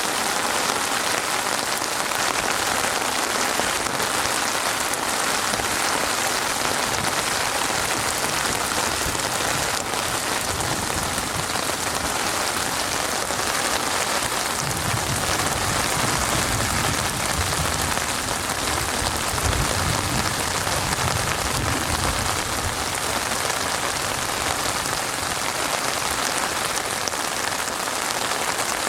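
Steady, heavy rain falling, a dense even patter. A soft low rumble rises under it for several seconds around the middle.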